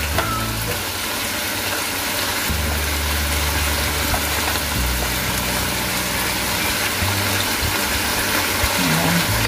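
Meat and freshly added vegetables sizzling steadily in a wok, over a low hum that shifts in pitch about two and a half seconds in and again near five seconds.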